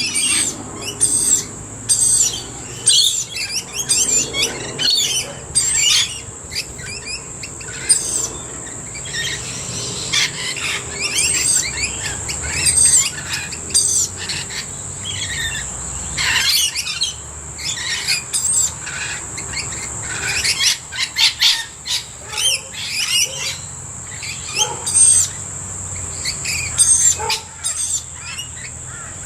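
A mixed group of backyard birds, rainbow lorikeets, blue-faced honeyeaters and noisy miners, calling almost without pause: many short, shrill, overlapping calls and squawks. A steady high-pitched drone runs beneath them.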